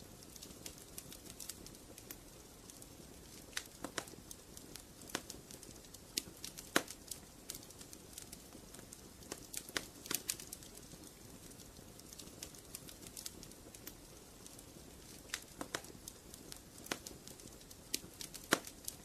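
Wood fire in a fireplace crackling: irregular sharp pops and snaps, some in quick clusters, over a steady low hiss of the burning fire.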